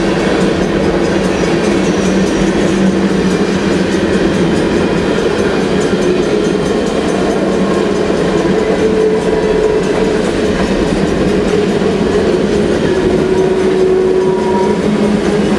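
Freight cars of a long manifest train (tank cars and hoppers) rolling past close by: a steady loud rumble and clatter of steel wheels on rail, with a few faint held tones over it.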